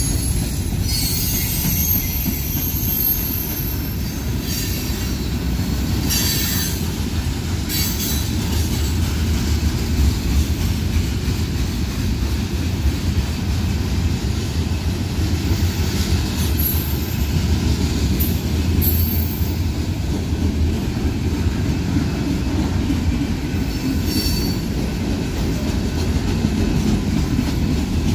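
Freight cars of a manifest train rolling steadily past: a continuous low rumble of steel wheels on rail. Brief high-pitched wheel squeals come every few seconds.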